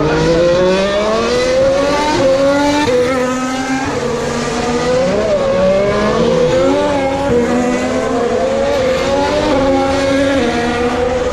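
2018 Formula 1 cars' turbocharged V6 hybrid engines accelerating out of a chicane, the engine note climbing and dropping back at each upshift.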